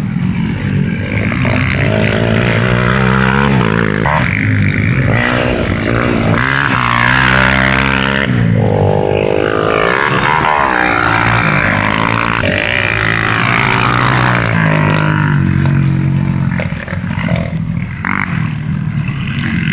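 Dirt bikes' single-cylinder four-stroke engines accelerating and revving, the pitch climbing and dropping again and again as they ride, with more than one engine heard at times.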